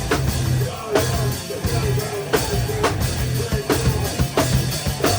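Rock band playing live, heard from the drum kit: loud drums with sharp snare and cymbal hits over the rest of the band.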